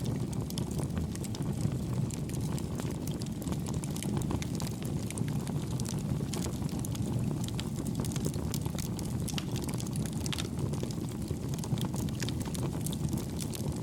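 Campfire burning: a steady low rush of flames with frequent small, soft crackles and pops from the burning wood.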